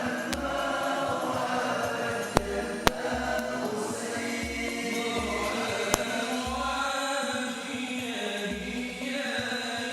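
A group chanting an Arabic devotional song in unison over a regular low beat, with a few sharp clicks.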